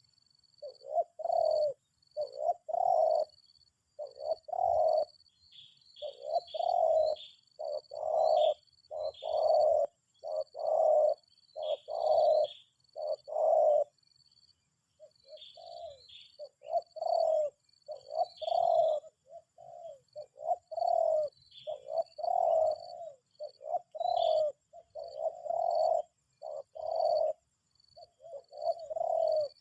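Spotted dove cooing over and over, phrase after phrase, with a short pause about halfway through. Faint high chirps from smaller birds sound above it.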